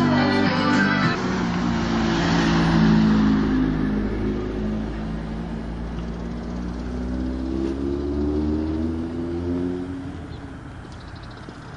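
A car engine running, its pitch dipping and then slowly rising as though picking up revs. It fades away about ten seconds in. Rock music cuts off about a second in.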